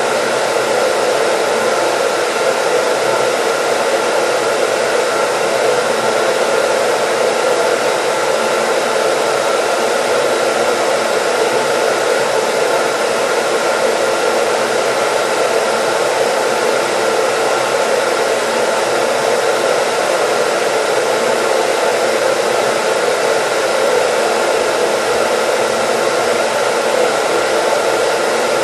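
Hair dryer running steadily, a continuous airy rush with a faint motor hum, used as white noise.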